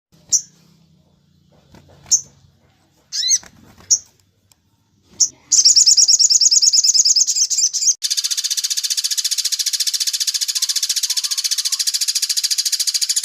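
Bird calls: a few short, separate high chirps, then about halfway in a continuous rapid trill that turns into a harsher, fuller rattle a few seconds later.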